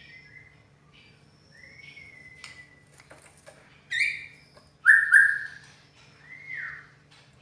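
White-rumped shama (murai batu) singing: soft gliding whistles, then loud full notes about four and five seconds in, and an arching rise-and-fall whistle near the end.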